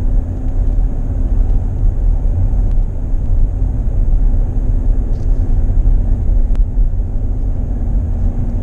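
Car driving slowly on a back road, heard from inside the cabin: a steady low rumble of road and engine noise with a faint steady hum and a few light ticks.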